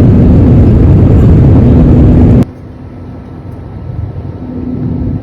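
Airliner cabin noise on descent: a loud, steady rush of engines and airflow with a faint hum, cut off abruptly about halfway through and followed by a much quieter, duller cabin drone.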